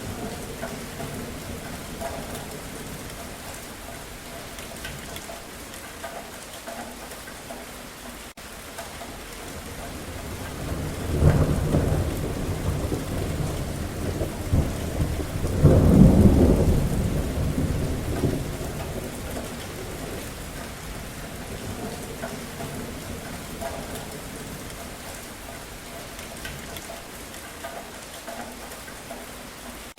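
Steady rain falling, with a thunderclap about a third of the way in that rolls into a second, louder peak and then rumbles away over several seconds.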